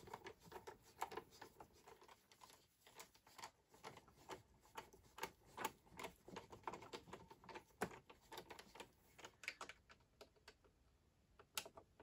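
Faint, irregular clicking and ticking of a screwdriver tightening screws into the base of an iMac G4, the tip working in the screw heads as they are drawn down snug. The clicks thin out near the end.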